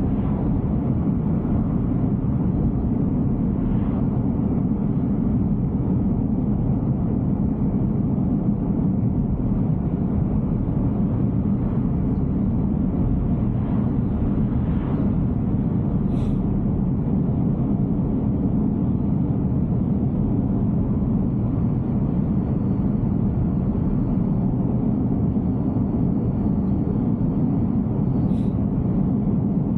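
Steady low rumble of road and tyre noise from a Tesla on Full Self-Driving rolling along the road, with two faint brief ticks, one about halfway through and one near the end.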